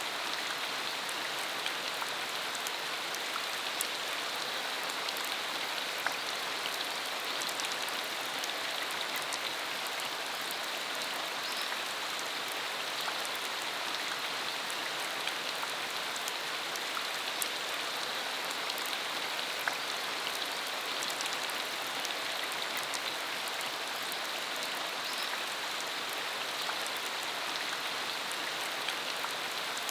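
Steady rain falling, a continuous hiss with many small drop patters on the ground.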